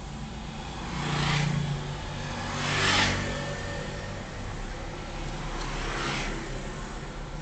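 Road traffic: a steady vehicle hum with three vehicles passing close by, about one, three and six seconds in, each swelling and fading; the second pass is the loudest.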